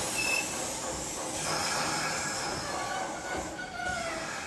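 Kintetsu 2050 series electric train rolling slowly along the platform, its wheels running with a steady rumble and hiss. Several high-pitched squeals come and go over it.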